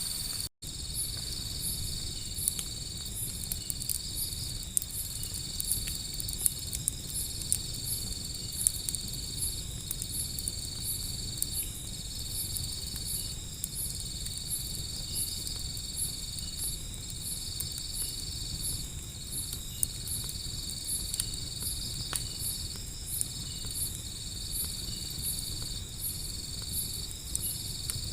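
Crickets chirping steadily: one high trill with short breaks and a faster pulsing call above it, over a low rumble with scattered sharp crackling pops from a wood fire. The sound cuts out briefly about half a second in.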